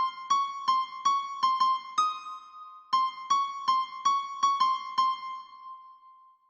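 Guide melody played on an electric-piano-like keyboard tone, one note at a time, tracing a song's vocal line at about three notes a second. The phrase ends about five seconds in with a held note that fades away.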